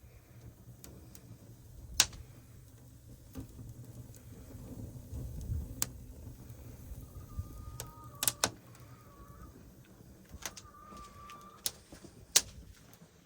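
Wood fire burning in a stone bread oven: scattered sharp cracks and snaps over a low rumble. A few short wavering whistle-like calls come in around the middle and again near the end.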